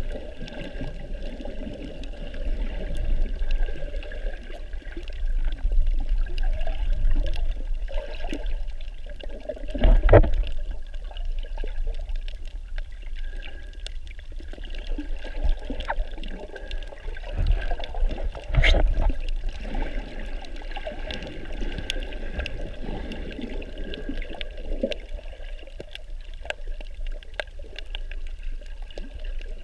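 Muffled water sloshing and splashing picked up by a snorkeler's camera in and around the water, with a low rumble throughout. Two louder thumps come about ten and nineteen seconds in.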